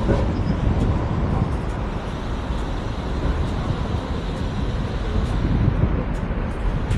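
Vario LF2R.E tram with its LFR.E trailer running along the track, a steady low rumble with a few faint clicks, heard from inside the car.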